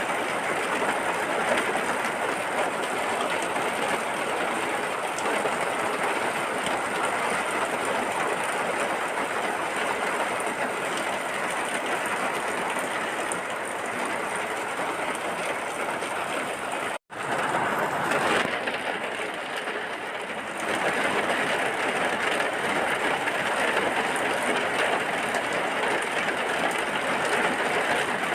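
Steady heavy rain, a dense even hiss, cut by a sudden split-second dropout a little past halfway, after which it resumes.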